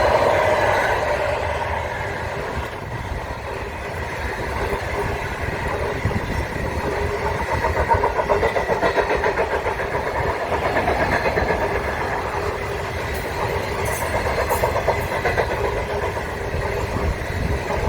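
A train running, with a steady engine drone and a fast pulsing rhythm through most of it.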